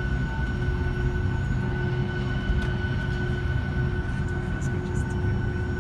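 Boeing 757 cabin noise: a steady jet-engine drone with a low rumble and a few fixed whining tones, unchanging throughout, with a few faint rattles.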